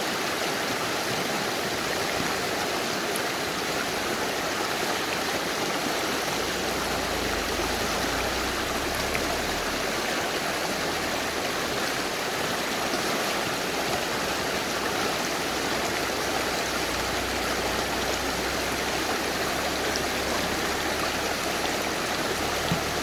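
Mountain river flowing: a steady, even rush of water. A low rumble joins underneath about six seconds in.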